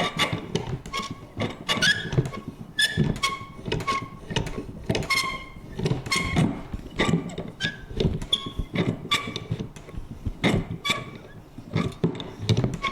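Vintage metal paper punch worked over and over: a steady run of clicks and clunks, about two or three a second, each with a short metallic ring.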